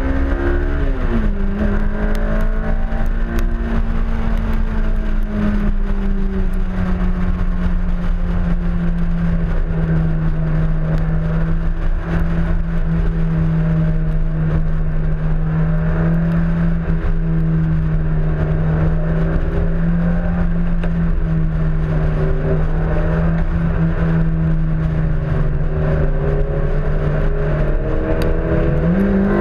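Honda S2000 four-cylinder engine running on track, heard from outside the car with a steady rush of wind noise. Its pitch drops about a second in, then holds nearly steady for most of the time before climbing again near the end.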